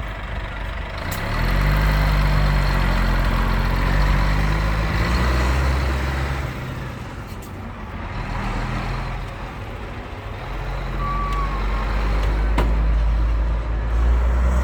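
Scania 124L 400 truck's 12-litre inline-six diesel revved up twice: it climbs from idle about a second in, holds high revs for several seconds, falls back, then climbs again and holds near the end.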